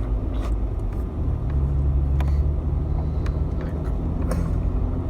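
A vehicle's engine and road rumble heard from inside the moving vehicle. The engine note strengthens about a second in and holds for a few seconds.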